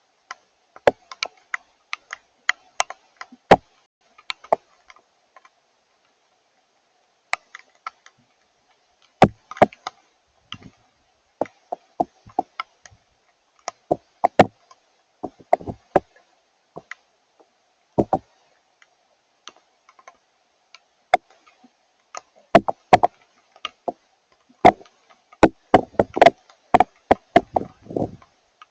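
Irregular sharp taps and ticks of water drops from rain and melting snow striking a hard surface close to the microphone, sometimes several in quick succession, coming thicker near the end, over a faint steady hum.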